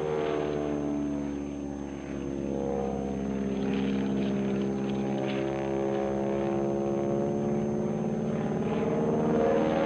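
Propeller engine of a Stearman biplane running in flight, its note dipping lower over the first few seconds and then climbing again toward the end.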